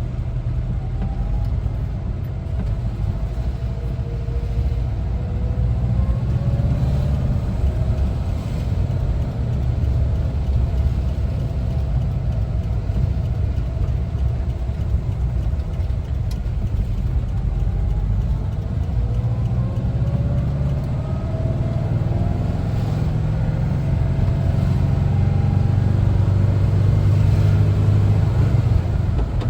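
1974 Volkswagen Westfalia camper's air-cooled Type 4 flat-four engine pulling the van along with a steady low rumble. The engine note rises in pitch twice as it accelerates.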